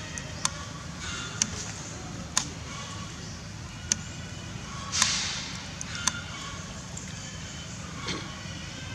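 A series of sharp clicks or knocks, five or six spaced roughly a second apart, over a steady low hum. A short hissing rush comes about five seconds in.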